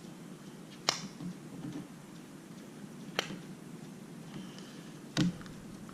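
Three sharp clicks about two seconds apart, the last a heavier knock, as small parts of an iPad mini are handled and clipped together.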